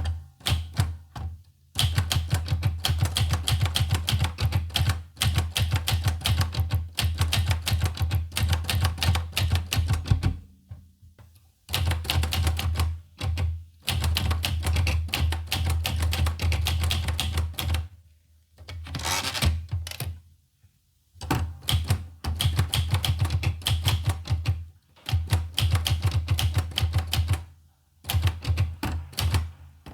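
Olivetti Lettera 25 portable manual typewriter being typed on: fast runs of sharp keystrikes, broken by a few short pauses.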